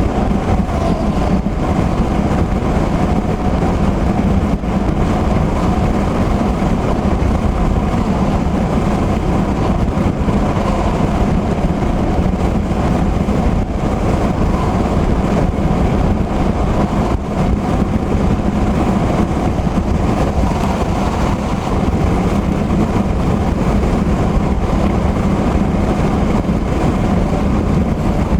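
Steady road and tyre noise from inside a car cruising at highway speed on wet pavement in heavy rain.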